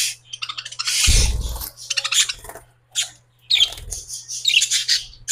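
Pet bird chirping and squawking in short, repeated calls, with a bump or scuffle about a second in.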